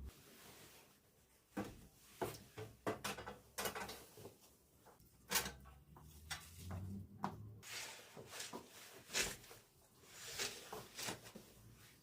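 Household handling sounds: a busy, irregular run of knocks, clunks and short rustles as things are moved about and set down, the sharpest knocks about five and nine seconds in.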